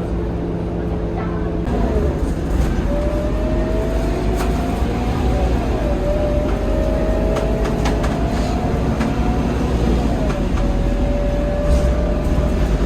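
Scania K230UB city bus's five-cylinder diesel idling, then pulling away about two seconds in. A whine climbs steadily with speed and drops back twice as the automatic gearbox shifts up, with short rattles over a low rumble.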